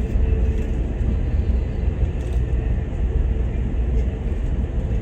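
Steady low rumble of a Metrolink passenger train in motion, heard from inside the car, with a faint steady hum over it.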